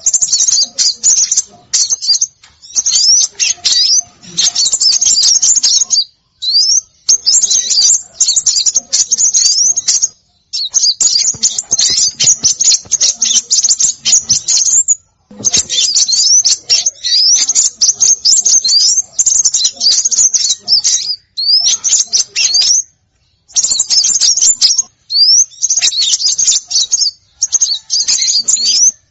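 Small songbirds calling in a bird-luring recording: dense bursts of rapid high-pitched chirps and short rising whistles, broken by brief pauses every few seconds.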